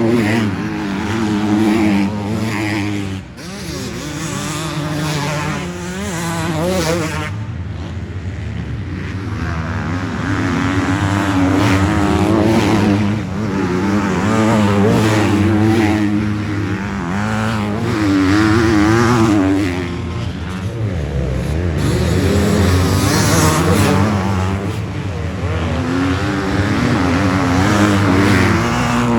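Several motocross dirt bikes racing, their engines revving up and down and overlapping as the bikes accelerate and pass.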